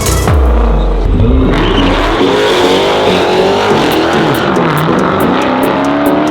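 Loud vehicle engines revving and accelerating, their pitch sweeping up and down repeatedly.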